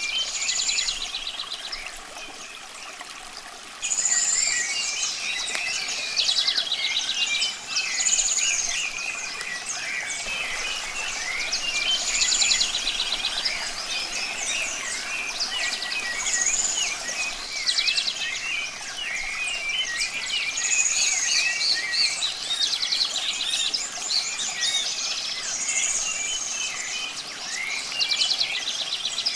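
Several wild birds singing and chirping together. One song repeats about every four seconds, a high slurred whistle followed by a buzzy trill, and the chorus grows louder about four seconds in. A steady rush of running water lies beneath.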